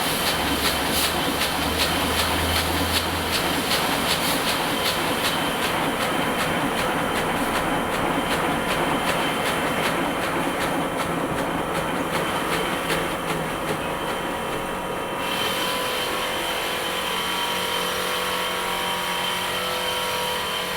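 Heidelberg SM 52 four-colour sheetfed offset press running, a steady rhythmic mechanical clatter.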